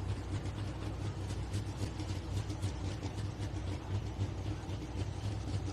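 Pro stock pulling tractor's big single-turbo diesel, an International 1206, idling steadily at low rpm.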